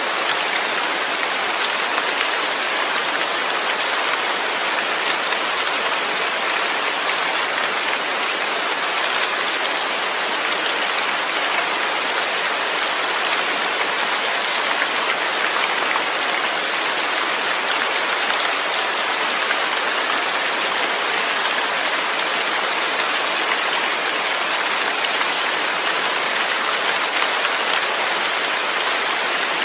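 Steady rain falling, an even dense patter of drops on surfaces with no breaks or changes.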